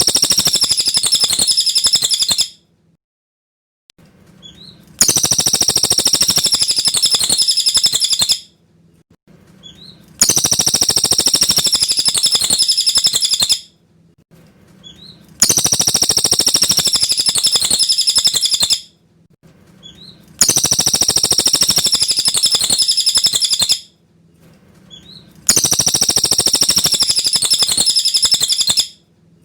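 Cililin bird singing clear, high song phrases, each about three and a half seconds long. The same phrase is repeated six times about every five seconds with short silences between, like a looped recording played to train white-rumped shamas to copy it.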